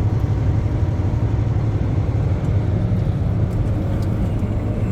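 Semi-truck's engine drone and road noise heard inside the cab at highway speed, a steady low hum.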